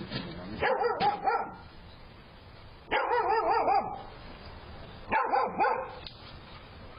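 Dog barking in three short bouts, each about a second long and about two seconds apart.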